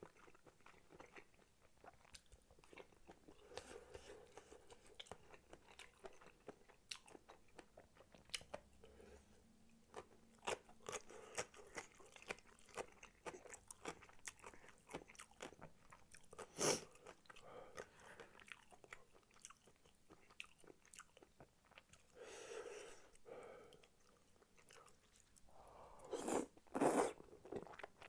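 Close-miked chewing of spicy tteokbokki rice cakes and fish cakes: a steady run of wet mouth clicks and smacks, with one louder click about two-thirds of the way through and a couple of louder bursts near the end.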